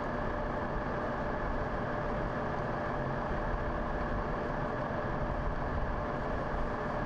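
Heavy vehicle engine idling steadily, with a constant low rumble and a thin steady tone running through it.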